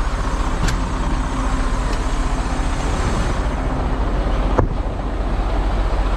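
Semi truck's diesel engine running with a steady low rumble while driving, with a single sharp click about four and a half seconds in.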